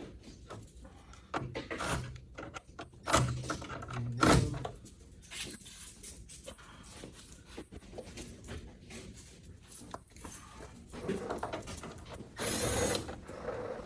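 Small hand ratchet clicking as 13 mm bolts are backed out, with irregular clanks and knocks of metal parts, a couple of them louder a few seconds in, and a scraping noise near the end.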